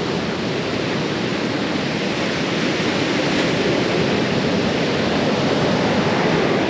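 Rough, choppy ocean surf breaking on the beach, a steady rush of waves with wind.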